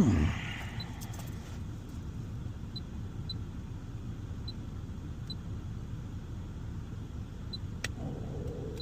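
A car engine running, heard as a steady low rumble inside the cabin. There is a brief loud sound with a falling pitch at the very start, and a few faint small clicks.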